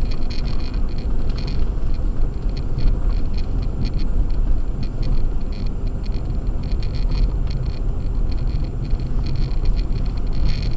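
An Acura MDX driving on a snow-covered road on Sumitomo Ice Edge winter tyres. It gives a steady low rumble of tyre and road noise mixed with the engine, with faint irregular crackle on top.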